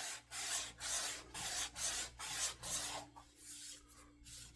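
Hand sand plane rubbed back and forth along a flat facet of a wooden axe handle: a scratchy sanding sound in quick strokes, about two a second, growing fainter after about three seconds.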